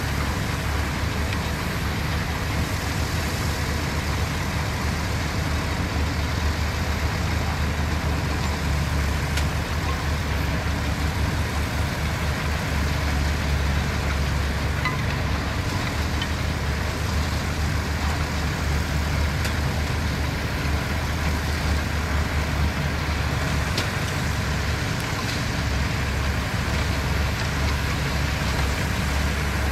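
Diesel engines of heavy construction machines, bulldozers and dump trucks, running steadily with a deep low hum, with a few faint knocks.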